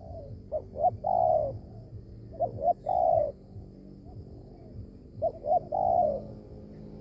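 Spotted dove (tekukur) cooing: three phrases, each of two or three short notes followed by a longer, falling coo, repeating about every two and a half seconds.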